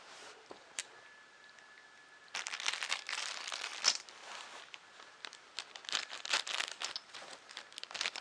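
Packaging crinkling and tearing as a part is unwrapped by hand. A single click comes early, and the dense, irregular crinkling starts about two seconds in.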